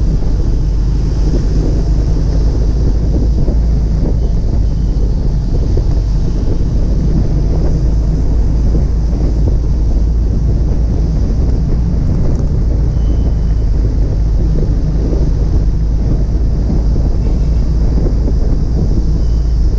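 Wind buffeting the microphone over a steady low rumble of vehicles driving at road speed.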